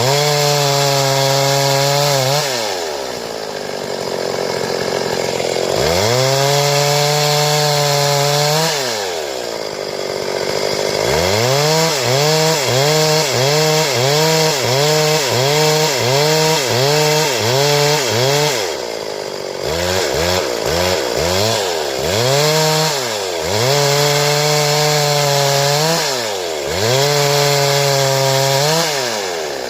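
Stihl two-stroke chainsaw revving to full throttle and dropping back to idle over and over. It holds high for a few seconds at a time while cutting boards, with a run of quick throttle blips about once a second in the middle.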